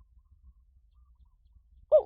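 A pause with only a faint low hum, then just before the end the first note of a spotted dove's cooing call begins.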